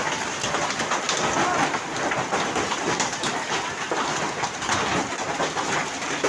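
Heavy hailstorm: hailstones and rain pelting down hard, a dense steady clatter of countless small sharp impacts.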